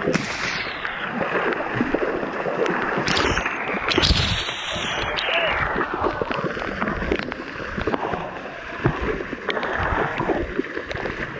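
Water splashing and sloshing in a river as people wash elephants, with many sharp splashes over a busy rush of water.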